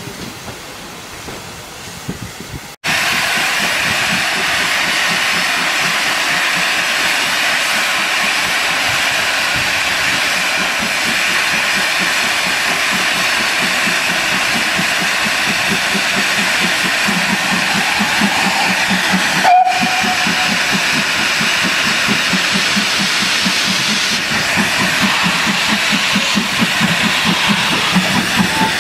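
Steam locomotive hissing steam loudly and steadily, starting abruptly about three seconds in. In the second half, a rhythmic low pulsing grows under the hiss.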